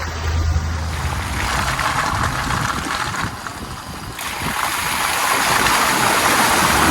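Vehicle driving on a wet road: a low engine hum under steady tyre hiss, the hiss growing louder about four seconds in.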